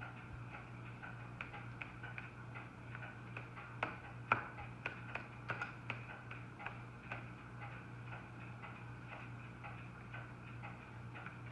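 Paintbrush tip dabbing dots of paint onto paper: a string of light, irregular taps, louder and closer together around the middle, over a steady low hum.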